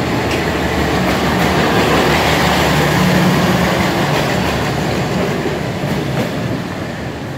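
Vietnam Railways passenger coaches rolling past at close range, a loud steady rumble of wheels on rail with a clickety-clack over the rail joints, easing off slightly near the end.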